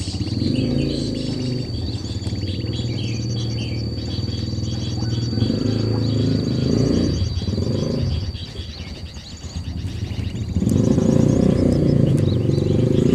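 Birds chirping and twittering over a thin steady high whine and a louder low drone; the drone fades for a couple of seconds around eight seconds in and returns strongly near the end.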